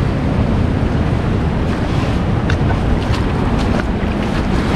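Wind noise on the microphone over steady ocean surf, with a few faint clicks.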